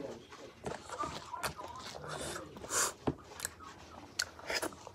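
A man chewing chicken close to the microphone, with quick wet smacks and clicks of the mouth and fingers, and a couple of short breaths about two and three seconds in.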